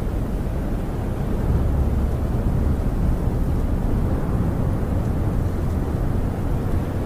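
Howling snowstorm wind buffeting a camper, heard from inside as a steady low rumble, swelling in a gust about a second and a half in.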